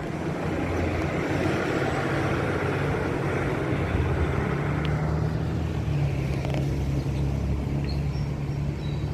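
A motor vehicle running steadily, with a continuous low engine hum under a noise of rushing air and road.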